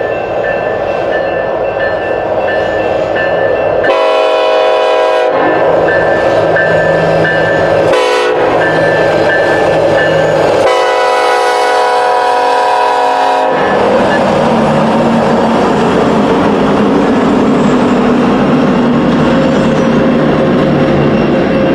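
BNSF diesel freight locomotive's air horn sounding three blasts, long, short, then a longer one, over the steady running of the locomotives as the loaded coal train starts to move.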